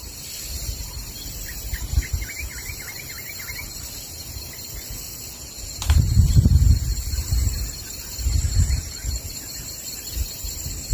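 Tropical forest ambience: a steady high chorus of insects, with a bird giving a quick run of chirps early on. About six seconds in, a sharp crack is followed by low rumbles of thunder that come and go.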